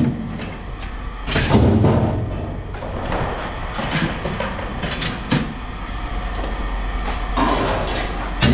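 Scrap metal being handled, with a few separate clanks and knocks over a steady low hum.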